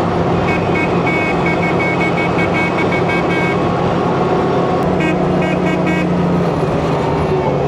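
A WWII Army DUKW amphibious truck's engine running steadily under a passenger riding aboard. A rapid series of high beeping tones, about four a second, sounds through the first few seconds and again briefly about five seconds in.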